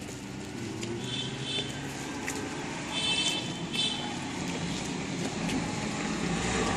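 Vehicle engine and road noise running steadily, with two short high-pitched chirps about a second in and about three seconds in.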